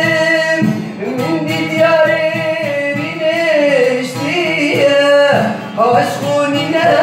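Male singer holding long, wavering, ornamented notes over instrumental accompaniment, with a short break about five and a half seconds in.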